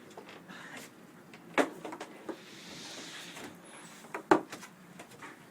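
Two sharp knocks, about a second and a half in and again about three seconds later, with faint rustling between them.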